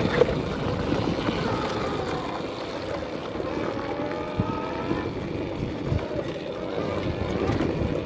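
Arctic Leopard XE Pro electric dirt bike's motor whining, its pitch rising and falling with the throttle on a rough climb, over rumbling trail noise with a few short knocks.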